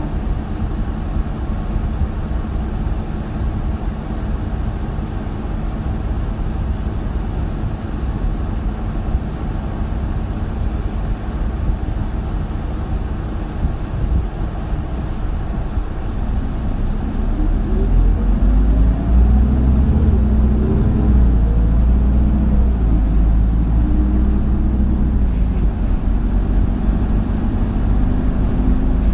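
Isuzu Erga city bus's diesel engine heard inside the cabin: a steady low rumble at first, then from about halfway in it grows louder, its pitch rising and dropping back several times as the bus pulls away and accelerates through the gears.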